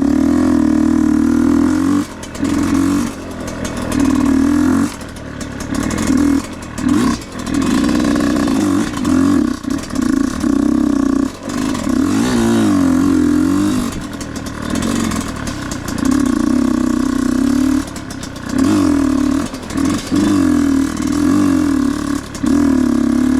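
Husqvarna enduro dirt bike engine revving up and dropping back over and over as the rider works the throttle on and off along a rough trail, with loose clattering from the bike and ground.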